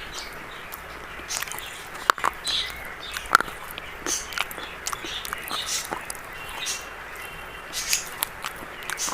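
Close-up crunching of brittle brown chalk: irregular sharp snaps and crisp crumbling crackles, a few every second, the loudest about two and three seconds in.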